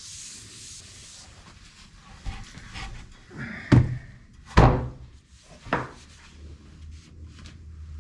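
Wooden board being handled and turned over to oil its other side: three loud wooden thunks within about two seconds near the middle, among lighter rubbing and handling noise.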